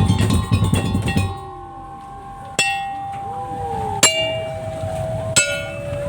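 Tong-tong ensemble: the drumming breaks off about a second in, then a metal percussion instrument is struck three times, about a second and a half apart, each note ringing on and each one lower in pitch than the last.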